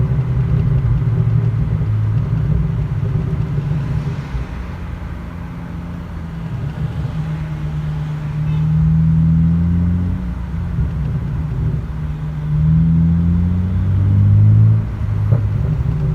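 BMW 335i's turbocharged straight-six through a muffler-deleted exhaust, pulling hard twice with the note rising each time, then lifting off. A single sharp exhaust pop comes about a second after the second lift-off.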